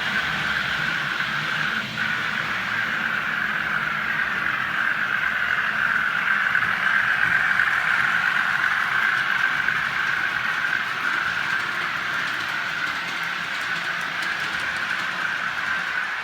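OO gauge model train running along the track, a steady whirr with a light rattle that grows louder about midway and then eases off.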